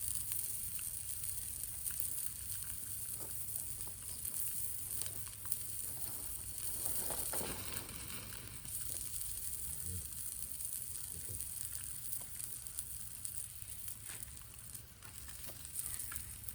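Meat sizzling on a grill over a wood fire, a steady hiss with scattered small pops and crackles.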